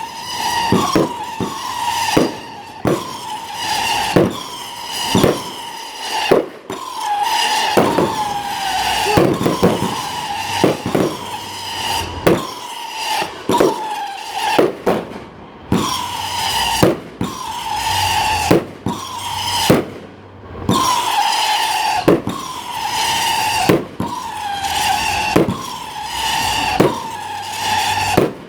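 Fireworks going off in quick succession: many sharp bangs mixed with shrill whistling shells whose pitch falls slightly, with only brief lulls.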